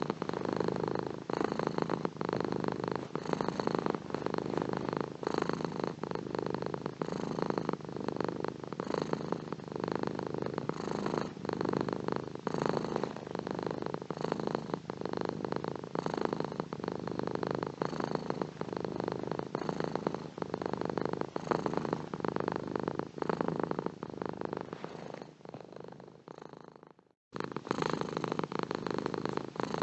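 Domestic cat purring steadily in a continuous rumbling rhythm. Near the end the purr fades, cuts out for a moment, then starts again.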